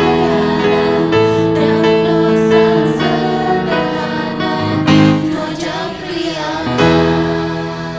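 A choir with piano accompaniment singing long held chords, ending on a final chord that fades away near the end.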